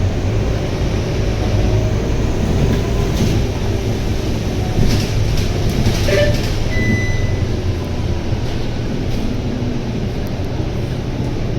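Scania K230UB bus on the move, its Scania DC9 9.3-litre five-cylinder diesel giving a steady low drone under road noise and cabin rattles. A brief high beep sounds a little before seven seconds in.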